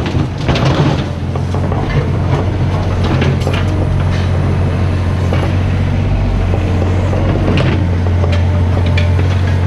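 Mini excavator's diesel engine running steadily, with a few short knocks from work at the bucket.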